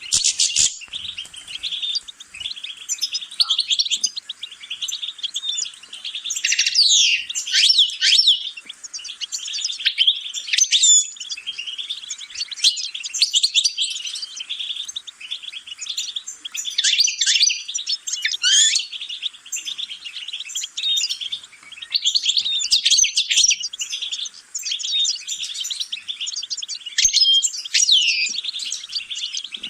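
European goldfinch singing: a fast, continuous twittering song of trills and quick sweeping notes, with only short breaks.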